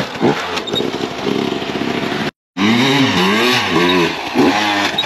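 Dirt bike engine revving up and down in repeated short blips, with a sudden break of silence a little before halfway.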